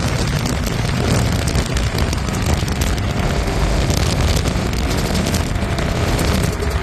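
Vehicle engine running loud and steady, heard close up.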